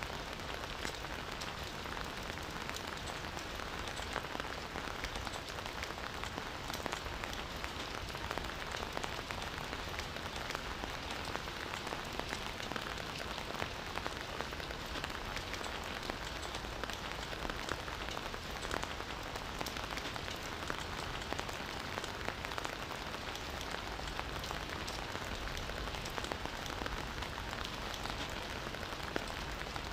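Steady rain falling on a surface, with many close individual drops pattering. The level stays even throughout.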